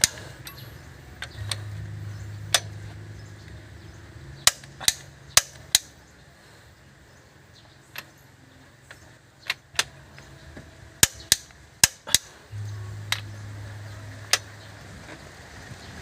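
About fifteen sharp clicks and knocks at irregular intervals, over a low steady hum that grows louder twice, from about a second and a half in and again near the end.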